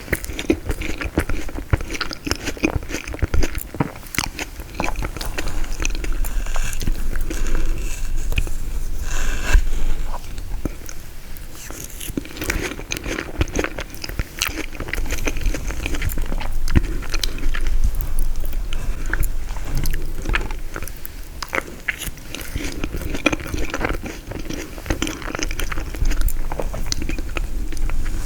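Close-miked biting and chewing of frozen tiramisu, with a dense run of small crunching and clicking mouth sounds.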